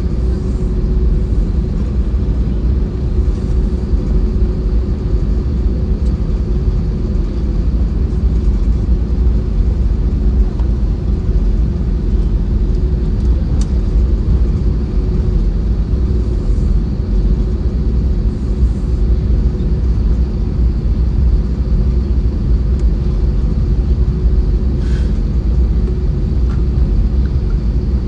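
Airbus A320-232 jet engine and airflow noise heard inside the passenger cabin: a steady, loud low rumble with a constant hum over it.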